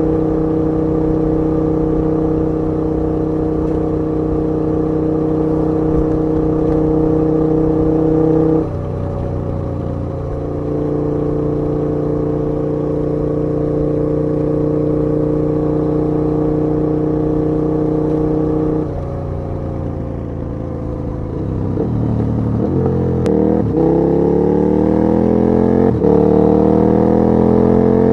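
KTM 1290 Super Duke R V-twin engine running at a steady cruise, with a short dip about a third of the way in. It eases off for a few seconds, then revs up through a few quick gear changes, the pitch rising and dropping back at each shift near the end.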